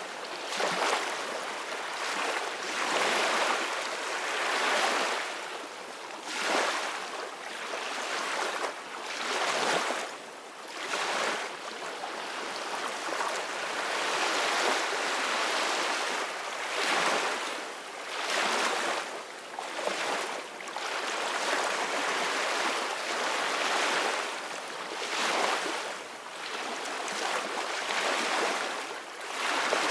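Ocean surf: a continuous wash of waves whose hiss swells and fades every second or two.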